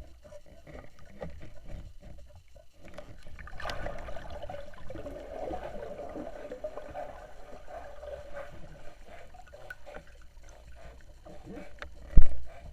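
BS Diver fins creaking: a rough, rasping squeak starts about four seconds in and lasts about five seconds. A single loud thump comes near the end.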